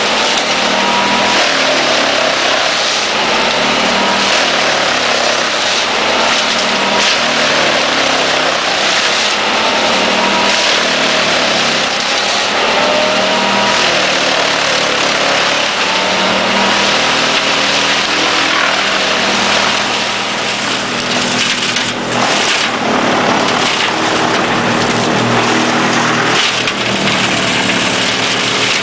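Erjo 9/93 drum chipper mounted on a forwarder running and chipping wood, over the forwarder's diesel engine. It is loud and steady, with repeated rising whines and a brief dip about two-thirds of the way through.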